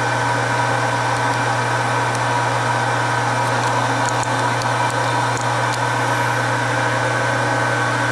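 Metal lathe running steadily: an even motor and gearbox hum with a constant high whine over it.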